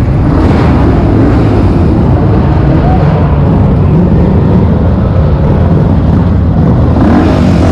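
Loud, steady car engines and exhaust running as cars pull out.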